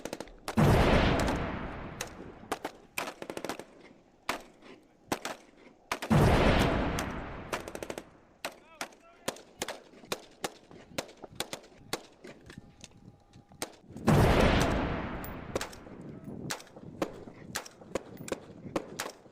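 Airsoft replicas firing: many sharp single snaps scattered throughout. Three loud sudden bursts come about half a second in, about six seconds in and about fourteen seconds in, each dying away over a couple of seconds.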